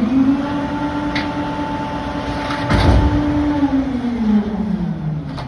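Rear-loader garbage truck engine speeding up, holding at a higher speed for about three seconds, then dropping back toward idle. A sharp crash of debris lands about three seconds in.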